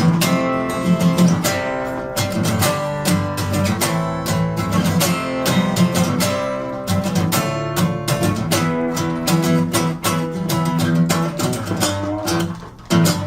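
Acoustic-electric guitar played solo, an instrumental piece of picked and strummed chords with ringing notes, with a short break near the end.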